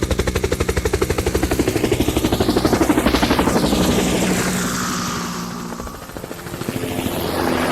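Helicopter flying past, its rotor blades beating in a rapid, even chop that grows loudest about three seconds in, then fades and swells again near the end.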